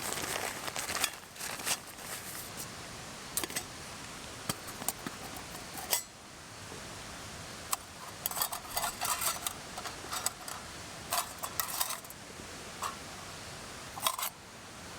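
Metal camp cookware being handled: scattered clinks and light knocks, busiest in a cluster past the middle and once more near the end, over a steady background hiss.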